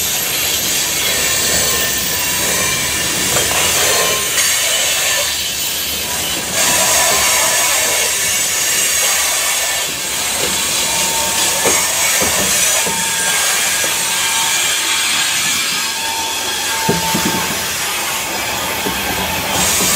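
Covered grain hopper cars of a freight train rolling past close by: steady rumble and rattle of steel wheels on the rails, with a thin wheel squeal now and then.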